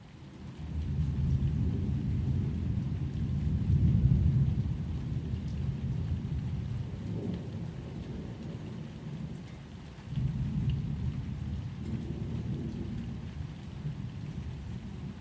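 Low rolling thunder rumbling, swelling to a peak about four seconds in and rising again about ten seconds in.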